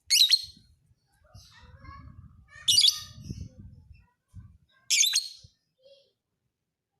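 Lovebird singing in three short, shrill chirping bursts about two and a half seconds apart.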